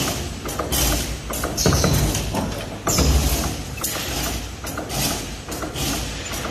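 CNC rebar stirrup bending machine running through its feed-and-bend cycle on steel bar: a steady clatter of knocks, broken every second or two by a short hiss and a thud.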